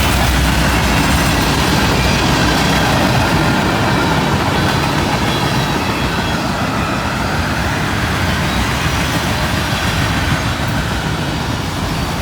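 Freight train cars rolling past at speed: a loud, steady rush of steel wheels on the rails with a low rumble, easing slightly toward the end.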